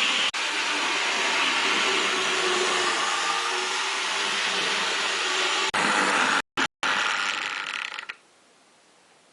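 Rivarossi HO-scale 2-10-2 model steam locomotive running on track: a steady mechanical whir of its motor and gear drive. It breaks off abruptly with a couple of short dropouts about six seconds in, then fades away by about eight seconds.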